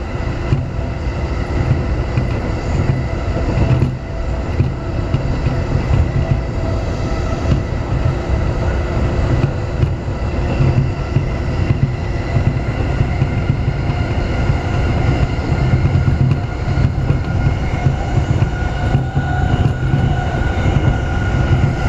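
Keiyo Line electric commuter train running at speed, heard from inside the passenger car: a steady rumble of wheels on rail, with a few steady tones running through it.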